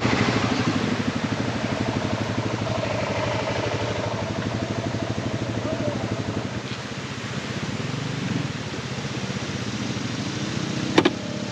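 Motorcycle engine running steadily with an even low pulsing beat, easing off a little as it goes; a sharp click near the end.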